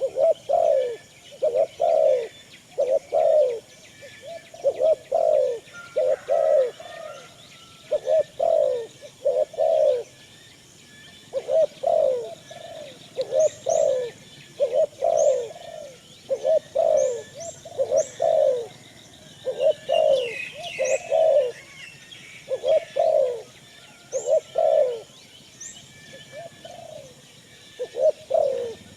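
Birds calling over and over: a low, repeated call in quick clusters of two or three notes, coming about once a second, with faint high chirps in the middle stretch.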